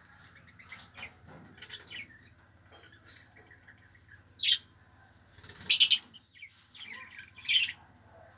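Lutino Fischer's lovebirds chirping: soft scattered chirps with a few short, loud, high calls, the loudest cluster about six seconds in.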